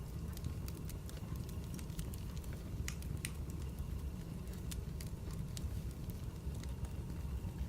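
Wood fire burning, with a steady low rumble and frequent irregular sharp crackles and pops of the burning logs.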